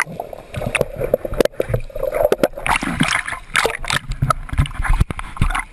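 Water splashing and sloshing in a flooded aircraft cabin, with repeated knocks and clatter and some people's voices.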